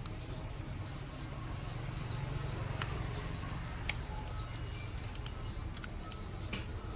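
A few faint, sharp clicks of small repair tools against a phone, over a steady low hum.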